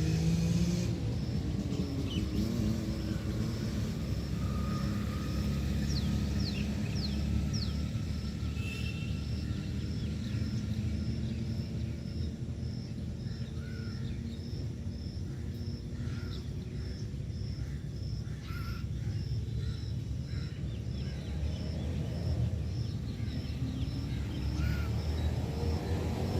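Outdoor ambience with a steady low rumble, a vehicle engine rising in pitch at the start and swelling again near the end. A faint high tick repeats about twice a second throughout, with a few short bird chirps in the middle.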